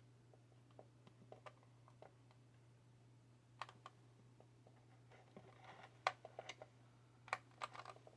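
Faint, scattered clicks and taps of small parts and tools being handled, sparse at first and coming in quick clusters in the second half, over a steady low hum.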